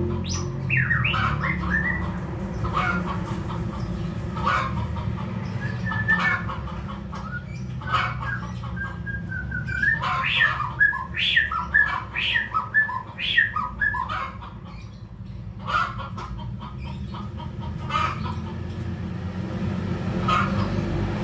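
Birds chirping in short, irregular calls, busiest about ten to thirteen seconds in, over a steady low background hum.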